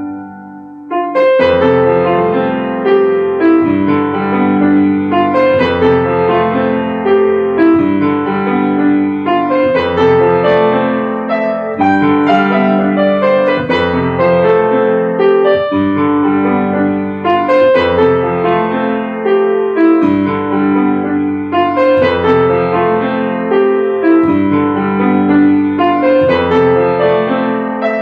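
Solo piano playing a continuous passage of many notes, after a brief soft moment about a second in.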